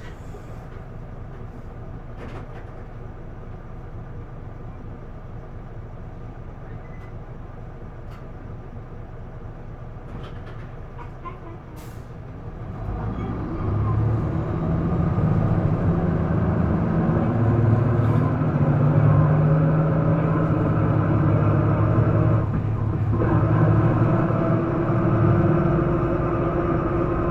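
Isuzu Erga PDG-LV234L2 city bus's diesel engine heard from inside the cabin. It runs quietly at first, with a few light clicks, then revs up loudly about halfway through as the bus pulls away and accelerates. Its pitch drops briefly about two-thirds of the way in, like a gear change.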